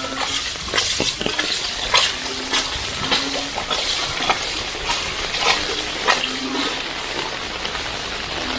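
Heavy rain falling steadily, with many sharp, irregular drips and splashes close by. A short low hum recurs several times.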